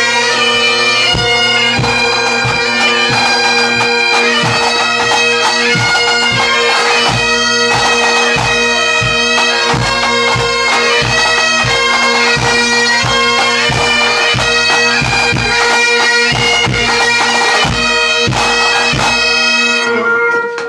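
A pipe band playing: bagpipes sounding a tune over steady drones, with drums beating a regular rhythm underneath. The playing stops just before the end.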